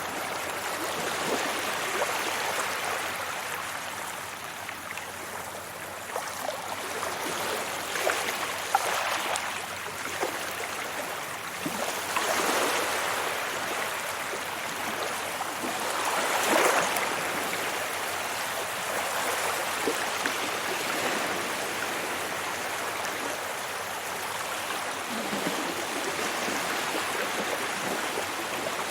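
Sea waves washing onto a beach: a continuous splashing wash that swells and ebbs, with a louder surge about two-thirds of the way through.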